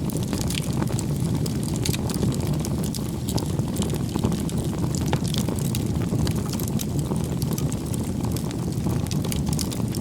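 Firewood bonfire burning: a steady low rumble of flames with frequent sharp crackles and pops from the burning wood.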